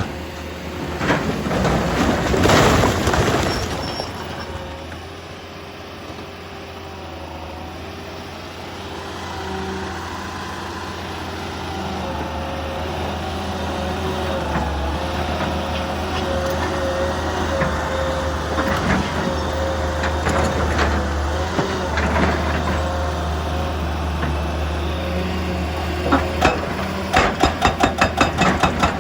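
Heavy diesel machinery running steadily with a low engine drone and a hydraulic whine. There is a loud hissing rush about two seconds in, and near the end a fast, even pounding starts at about four or five beats a second.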